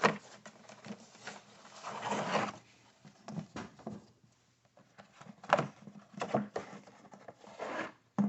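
Cardboard box and a paper-pleated engine air filter being handled: irregular rustling and scraping with a few sharp knocks, the loudest at the start and about five and a half seconds in.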